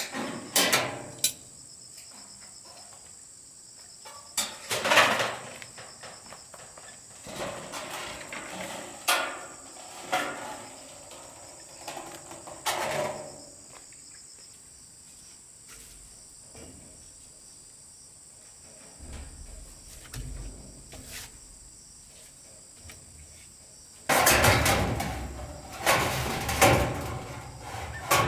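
Crickets chirping steadily, with a high constant trill, under irregular knocks and handling noise from building work. A louder spell of clattering and scraping comes in the last few seconds.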